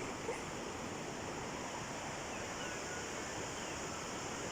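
Steady rushing noise of flowing stream water.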